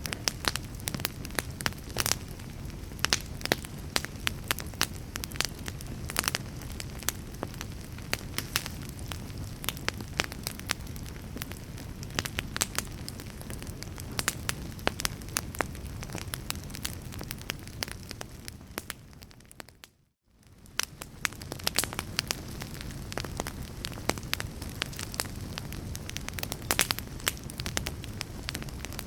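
A fire crackling: a steady low rumble with frequent sharp pops and snaps. About two-thirds of the way through, the sound fades out to silence for a moment and then comes back.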